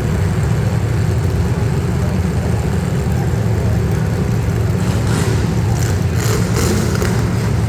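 Demolition derby cars' engines running and revving together at a steady, loud level. A few short bursts of higher hissing or scraping noise come about five to seven seconds in.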